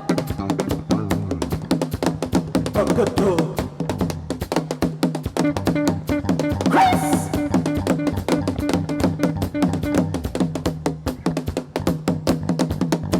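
Live Afro-fusion band playing an instrumental passage: a busy, even drum-kit and percussion rhythm over bass and guitar. A brief rising pitched sound cuts in about seven seconds in.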